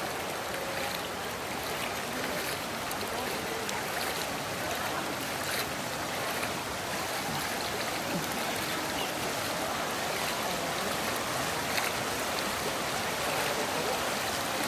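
Kelani River floodwater flowing fast, a steady rushing noise with a few faint clicks.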